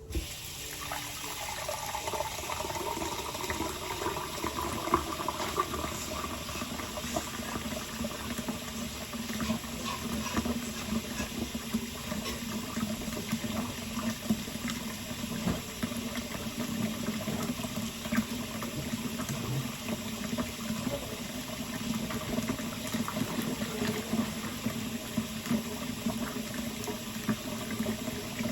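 Kitchen tap running steadily into a sink, with small scattered clinks over the rush of water.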